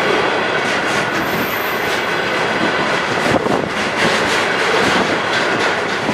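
Container flatcars of a freight train rolling past close by: a steady loud rumble of steel wheels on rail, with repeated knocks as the wheels pass over rail joints.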